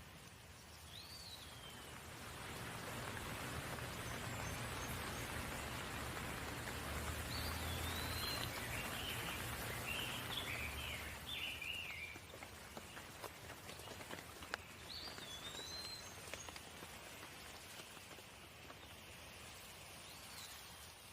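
Steady rain falling, swelling for several seconds and then easing, with birds calling through it: a few short swooping whistled calls and a brief run of chirps near the middle.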